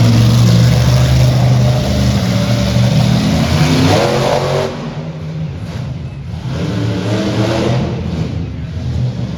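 Monster truck engine running loud with a deep drone, revving up with rising pitch about three to four seconds in, then dropping off sharply, and building again near the end.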